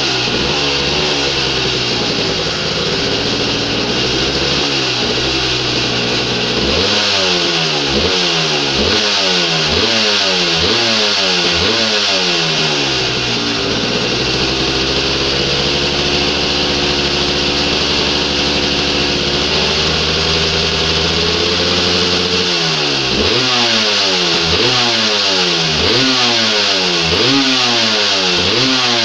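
A motorcycle engine idling and being revved through its exhaust in quick throttle blips, about one a second. It runs through two spells of revving with a steady idle in between.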